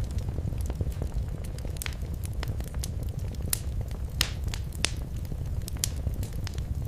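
Wood fire crackling in a fireplace: a steady low rumble of the flames with scattered sharp pops and snaps, a few louder pops about halfway through.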